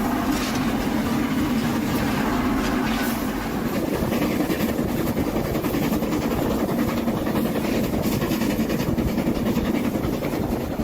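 Train running, a steady, loud noise with a strong low hum under it.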